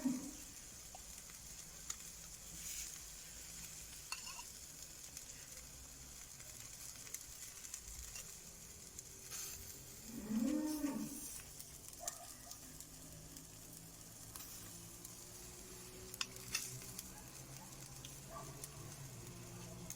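Tomatoes sizzling on a grill over a wood fire in a fireplace, a steady hiss with scattered crackles and pops. About halfway through comes one short low call.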